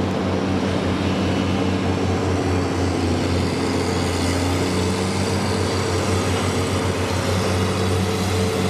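Heavy vehicle's diesel engine running steadily, with a low, pulsing drone.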